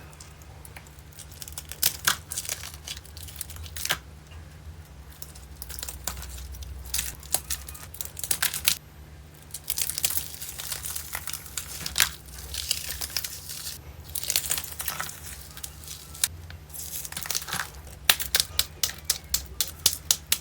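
Fridge-chilled giant water beads with icy, hardened shells being crushed, giving crisp, irregular crackling and crunching like cracking eggshells, in clusters that come thicker near the end.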